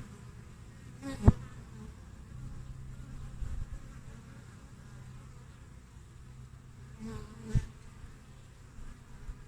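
Steady hum of many honey bees at a hive entrance, with two louder buzzes that swell and fall away as single bees fly close past the microphone, about a second in and again after about seven seconds.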